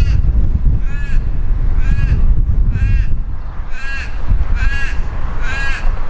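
A crow cawing seven times, about once a second, each caw a short arched call. A steady rumble of wind on the microphone runs underneath.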